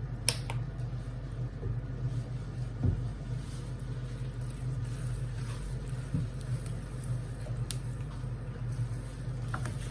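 Steady low hum of a kitchen while noodles cook in a pan, with a few brief clicks and knocks.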